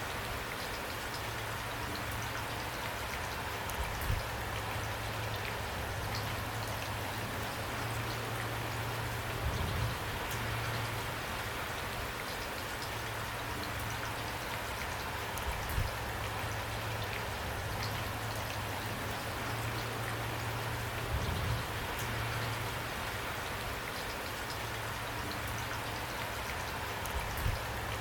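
Steady rain falling, with a louder single drop or tap every few seconds.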